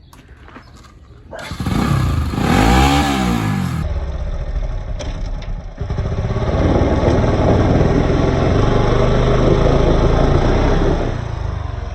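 Motorcycle engine revving hard, the pitch rising and falling once about two seconds in, then held at high revs for several seconds before easing off near the end.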